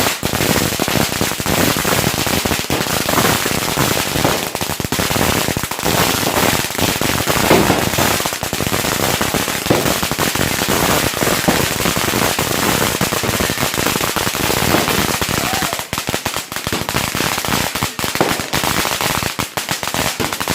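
A long string of firecrackers going off in a dense, unbroken rattle of rapid bangs. Over the last few seconds the bangs thin out and come more separately.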